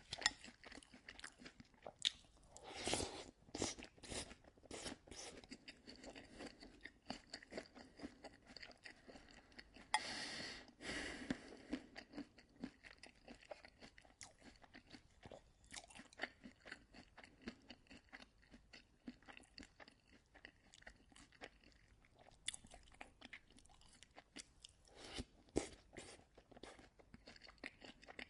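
Close-up eating of oatmeal: wet mouth sounds, chewing and spoon clicks. There are louder slurping or gulping bursts a few seconds in, near the middle and near the end.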